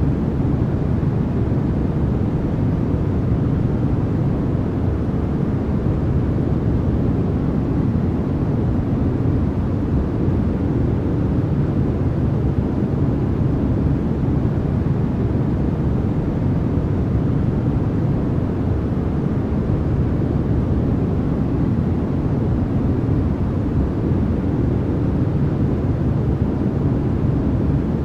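Continuous noise for sleep or focus, sold as white noise, running without any change. It is deep rather than hissy, with most of its weight in the low range and little treble.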